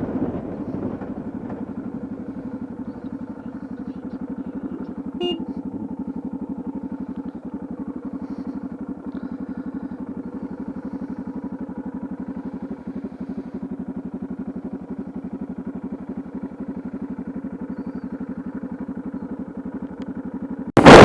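Yamaha XT660Z Ténéré's single-cylinder engine running at a steady cruise, its pitch holding even. A brief loud burst of noise comes near the end.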